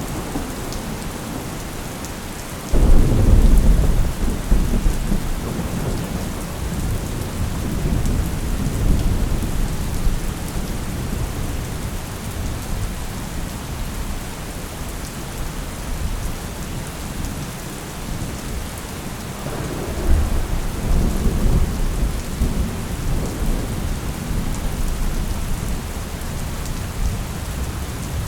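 Thunderstorm: steady rain falling, with a loud crack of thunder about three seconds in that rolls off into a long low rumble, and a second rumble of thunder about twenty seconds in.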